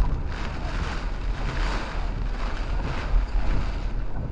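Pickup truck driving, heard from inside the cab: a steady low engine and road rumble with a hiss of tyre noise.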